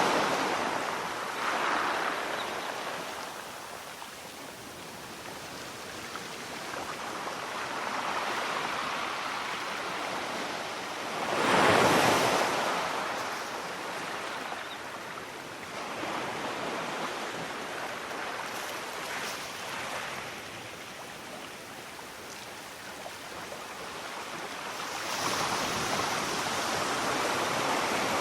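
Sea waves washing onto a shore, swelling and falling back. One wave breaks louder about halfway through, and the surf builds again near the end.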